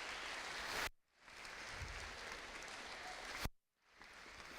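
Audience applauding, the sound cutting out abruptly twice for a moment.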